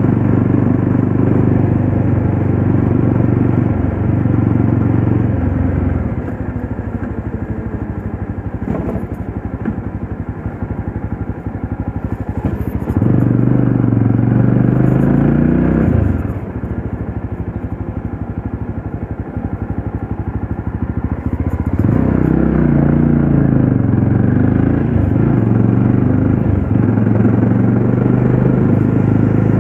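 Yezdi Roadster's single-cylinder engine running at road speed, heard from the rider's seat. Louder, steadier stretches alternate with quieter, pulsing ones, the engine pitch sliding as it shifts between them.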